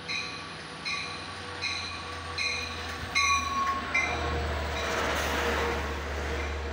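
Long Island Rail Road diesel train pulling into the station. A bell rings steadily, about one strike every three-quarters of a second, until about four seconds in. Under it the locomotive's low engine drone grows as it passes, then a loud rushing of wheels on rail as the bi-level coaches roll by.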